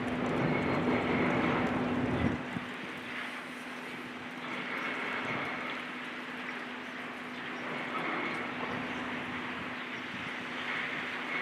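Heavy machinery running with a steady engine hum, over a general noise; a deeper rumble cuts off about two seconds in.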